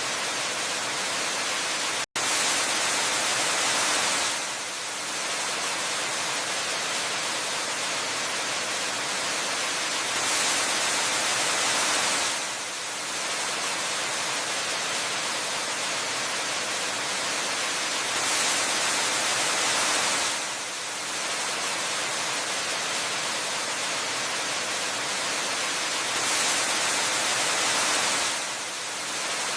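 Waterfall: a steady rush of falling water that swells and brightens about every eight seconds. It cuts out for a split second about two seconds in.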